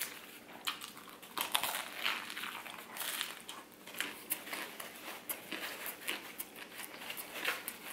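A person chewing a mouthful of fried oyster po' boy sandwich, crusty bread and fried oysters, close to the microphone: irregular crunching with many small crackles and clicks.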